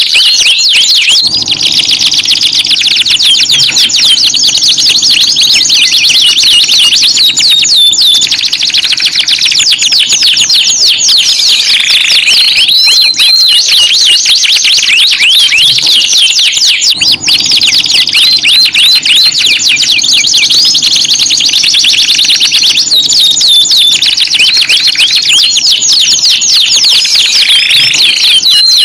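Domestic canary singing continuously in loud, high-pitched, fast rolling trills and chirps, a canary trigger song of the kind played to prompt silent canaries to sing. The same song sequence seems to repeat about every sixteen seconds.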